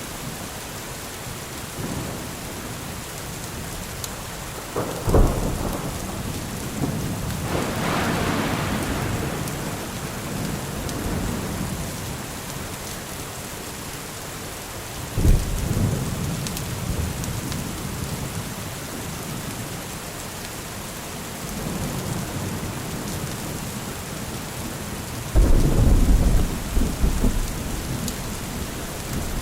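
Steady heavy rain with thunder: sharp claps about five and fifteen seconds in, each trailing into a low rumble, and a long rolling rumble near the end.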